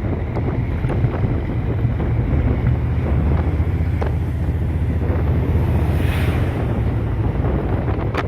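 Strong wind buffeting the microphone: a steady, heavy low rumble, with a brief higher hiss about six seconds in.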